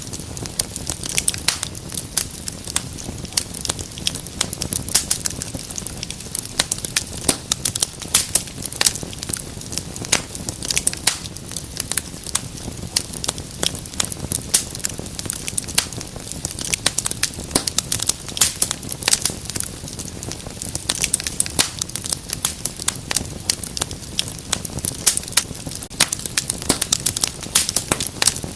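Wood fire burning in a fireplace, crackling and popping: many sharp, irregular snaps over a soft low rumble of flames.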